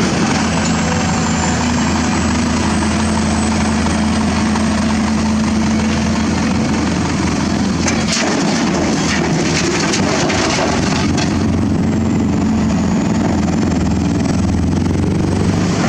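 Excavator's diesel engine running steadily, with a few short knocks around the middle.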